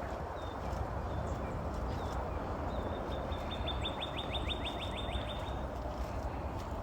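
A songbird sings a quick trill of about a dozen short descending notes, starting about three seconds in and lasting about two seconds, with a few faint single chirps before it. Underneath runs a steady low rustle of footsteps through the scrub.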